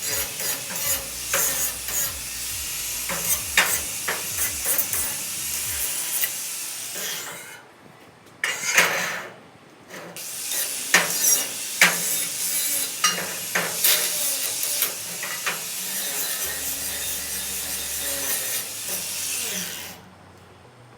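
Gas-shielded MIG welder laying weld beads: a steady crackling sizzle peppered with sharp pops. It runs in three stretches with brief pauses about 8 and 10 seconds in, and stops near the end.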